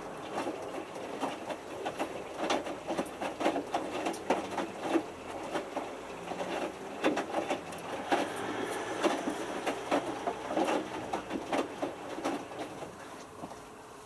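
Hotpoint Futura HF8B593 washing machine drum tumbling a small load during the main wash: irregular soft knocks and slaps as the wet t-shirts fall inside the drum, over the drum's running. The knocks taper off near the end.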